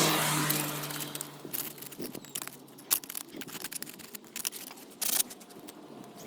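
A car passing by, loudest at the start and fading away over the first second or so, followed by scattered small clicks and scrapes, with one sharp click about three seconds in.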